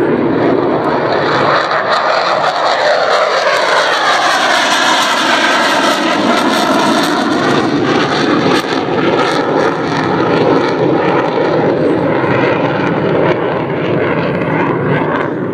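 Jet aircraft taking off, its engine noise loud and steady, with a sweeping, shifting tone between about two and eight seconds in.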